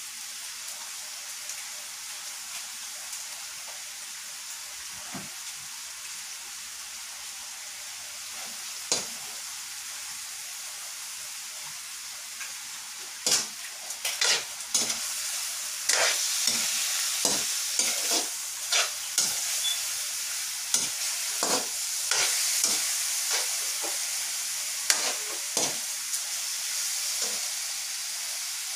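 Chicken pieces sizzling in a hot wok while a metal spoon stirs them, the sizzle growing louder about halfway through. Sharp clinks of the spoon scraping and knocking against the wok come thick and fast through the second half.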